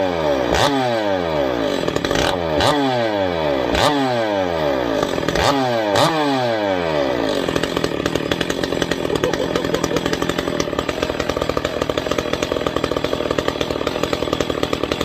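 Ported Echo CS-670 two-stroke chainsaw, with no bar or chain fitted, blipped to high revs about half a dozen times in quick succession, each blip falling back in pitch. It then settles into a steady idle for the second half.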